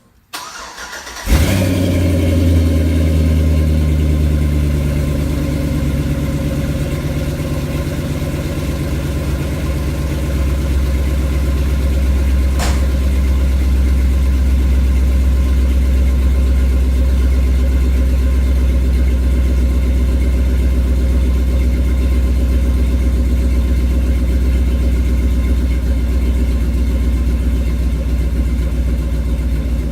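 A 6.0-litre LQ9 V8 in a Chevrolet C10 pickup cranks on the starter for about a second, then fires on a cold start and settles into a loud, steady idle through dual exhaust. A single sharp click comes about halfway through.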